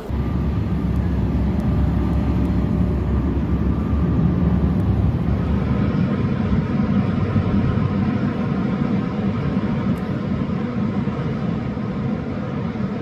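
Motor vehicle running with a steady low rumble and a faint steady hum above it, starting suddenly at the beginning.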